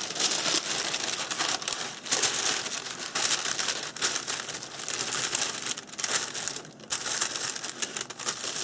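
Sheets of paper, among them graphite transfer paper, rustling and crinkling as they are handled and laid in place, a continuous run of crackly rustles.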